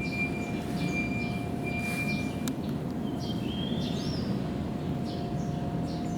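Steady low rumble of military jet aircraft engines running, with a thin steady whine above it. Birds chirp over the noise, one call rising and falling about four seconds in.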